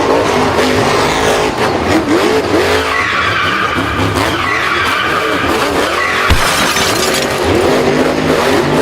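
Several engines revving up and down at once, their pitches rising and falling over one another, loud and unbroken, like cars racing.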